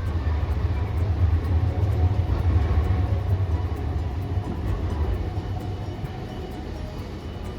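Hiroden streetcar running past on its rails: a low rumble that swells, peaks a second or two in, then fades away.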